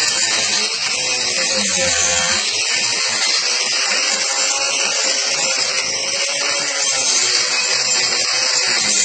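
Angle grinder fitted with a worn Saburtooth carving wheel, missing many of its teeth, running steadily at speed and grinding into wood, with a high hiss and a slightly wavering motor whine.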